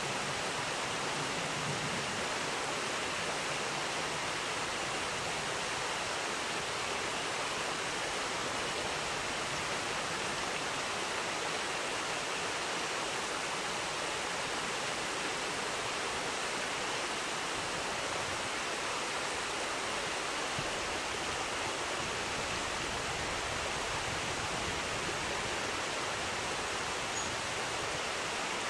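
Steady rush of flowing river water, an even hiss with no breaks or distinct events.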